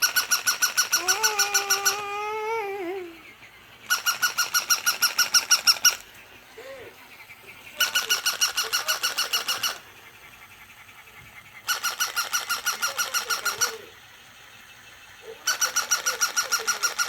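Battery-operated toy dog's electronic yapping: bursts of about two seconds of rapid, identical squeaky yips, about ten a second, repeating every four seconds or so. A child's short voiced sound comes in once, just after the first burst.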